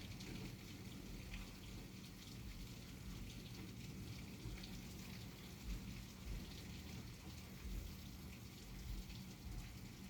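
Steady storm rain falling, with many small drop ticks close by and a low rumble underneath.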